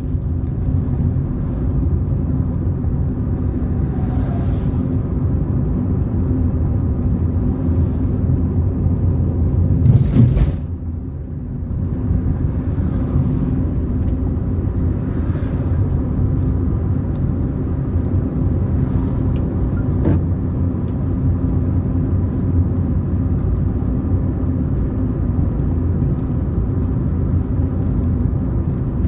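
Car driving along a road: a steady low rumble of engine and tyres. About ten seconds in there is a brief louder burst, followed by a moment of softer rumble.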